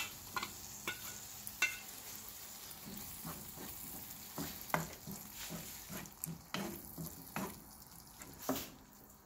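Spinach purée frying in oil in a non-stick kadai, a steady sizzle, while a wooden spatula stirs it with irregular knocks and scrapes against the pan. This is the stage where the spinach is cooked down in the oil until its raw smell goes. The sizzle thins out near the end.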